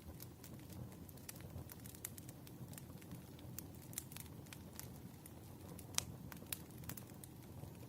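Wood fire crackling, with irregular sharp pops over a low, steady rumble of flame; the loudest pop comes about six seconds in.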